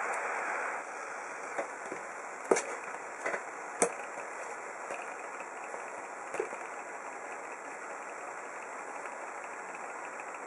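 Miniature 90-degree V-twin hot air engine, with cast iron pistons in an aluminium block, running fast with a steady whirring. A few sharp clicks sound in the first seven seconds.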